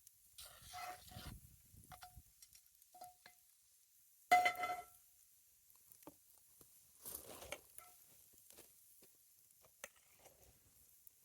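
Quiet handling of cooking utensils and dishes: scattered small scrapes and clicks, with one louder ringing clink about four seconds in.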